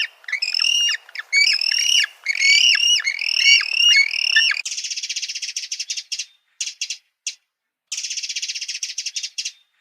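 Bird calls: a quick run of short, high notes, each falling in pitch, two to three a second. About halfway they give way to a high, dry buzzing trill in several bursts with short gaps.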